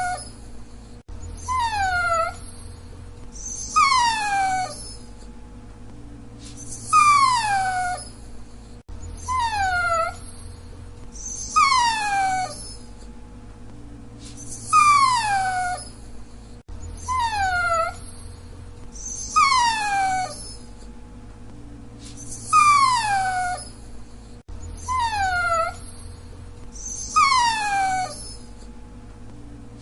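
Dachshund whining: short, high-pitched whines that fall in pitch, each under a second long, coming about every two and a half seconds. The same few whines repeat over and over as a loop.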